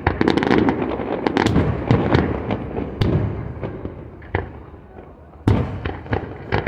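Fireworks display: rapid cracking and booming shell bursts, dense at first, thinning out, then a loud bang about five seconds in.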